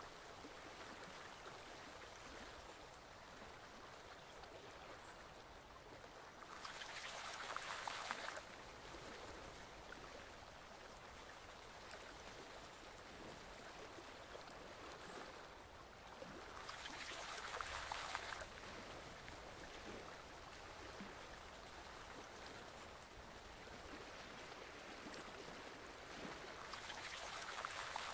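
Forest stream flowing steadily and faintly, swelling louder for a second or two about every ten seconds, three times.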